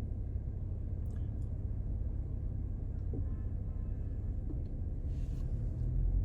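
Low, steady rumble of a BMW 540i's B58 turbocharged inline-six with an aftermarket ARP exhaust while the car is under way. The rumble swells louder near the end.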